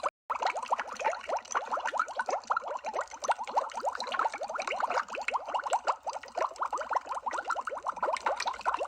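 Underwater bubble sound effect: a dense stream of small bubbles, many quick blips rising in pitch every second, with a very brief break just after the start.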